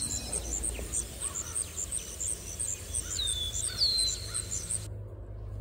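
Wild birds calling: a thin, very high call repeated about four times a second, with a few short whistles that slide downward, over a low outdoor rumble. The bird sounds stop abruptly about five seconds in.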